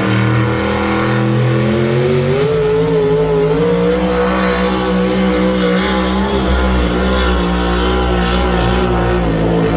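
A pulling vehicle's engine running at full throttle on a pull, its pitch climbing over the first few seconds and then holding high and steady.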